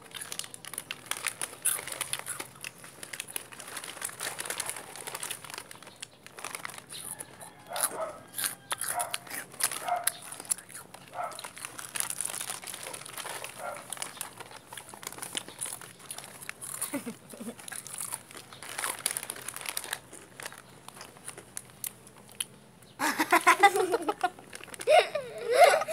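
Close-up eating sounds: irregular crunchy chewing and crinkling crackles. Near the end, a loud burst of voices and laughter.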